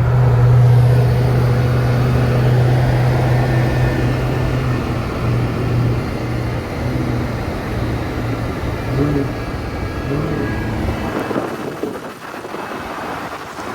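A car's engine and exhaust rumbling as it rolls past. There is a steady low drone at first, then it wavers and fades off near the end.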